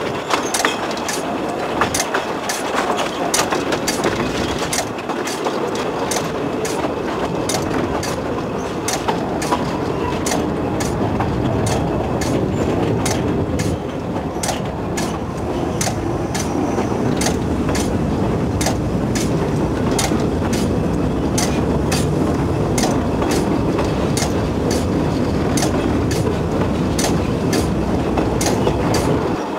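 Narrow-gauge train running along the track: a steady rumble with regular clicks of the wheels passing over rail joints.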